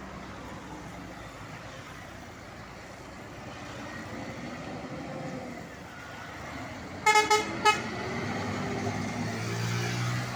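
Truck air horn sounding three short toots about seven seconds in, over a diesel truck engine running that grows louder near the end.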